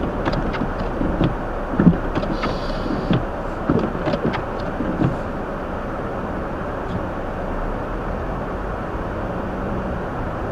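Steady cabin noise inside a Hyundai Elantra in a snowstorm, with the heater blower running. A few soft low thumps and faint clicks come in the first five seconds, then the noise stays even.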